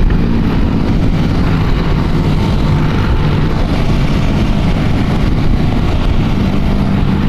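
Motorcycle engines running steadily on the move, with an even rush of wind noise over them.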